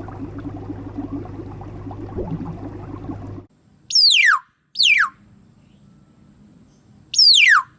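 A low hum with faint bubbling stops suddenly about three and a half seconds in. Then come four loud whistles, each sliding quickly down in pitch, heard as two pairs.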